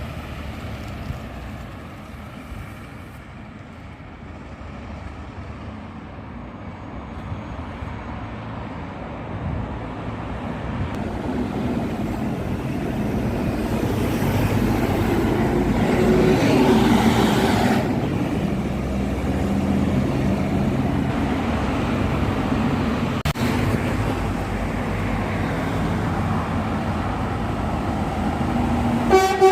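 Low, steady vehicle rumble that builds to its loudest a little past halfway, then holds. A short horn toot sounds right at the end.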